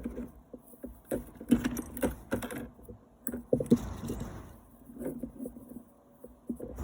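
Small metal parts clinking and clattering as they are handled, in irregular bursts of taps with a few sharper knocks.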